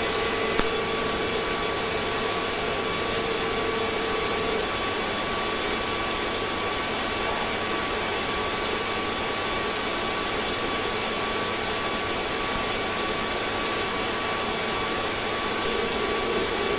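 Steady cabin noise of a police helicopter's engine and rotor, an even rushing hiss with a few faint steady whining tones over it.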